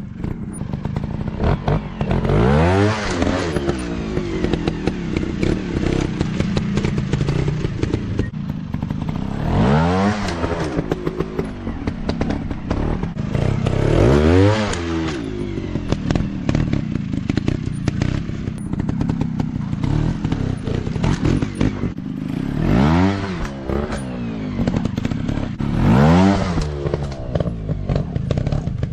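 Dirt bike engine running steadily, revving up sharply and dropping back about five times.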